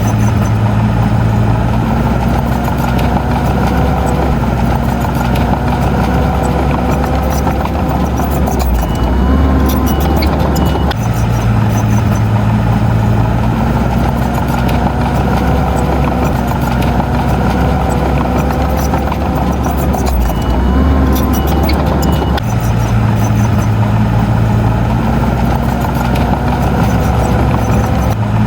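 Diesel engine of heavy earthmoving machinery running steadily under load. Its note shifts briefly a couple of times, in a pattern that repeats about every eleven seconds.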